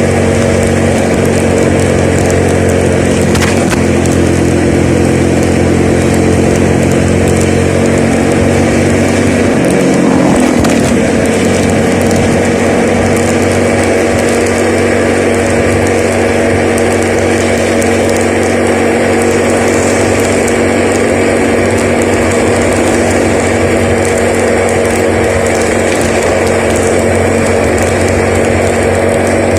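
Vehicle engine running steadily while on the move, with road and wind hiss; the engine note shifts about ten seconds in, as with a change of gear or speed.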